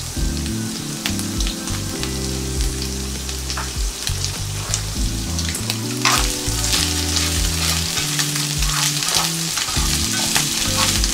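Shrimp frying in olive oil and pesto in a skillet, with steady sizzling and crackling. About six seconds in, a spatula starts stirring and turning them, and the crackling gets denser and louder.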